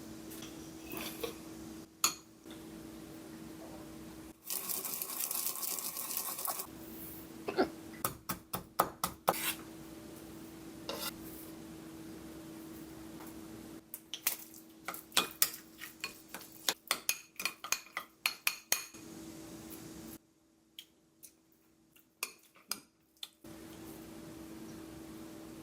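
Kitchen work: dishes and utensils clinking and knocking in quick runs of sharp taps, over a steady low hum. There is a hiss of noise for about two seconds, starting about four seconds in.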